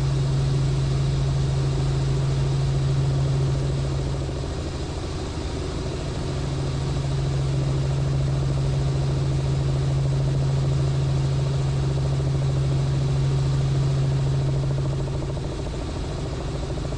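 Robinson R44 helicopter in flight, heard from inside the cabin: a steady drone with a strong low hum, easing slightly twice.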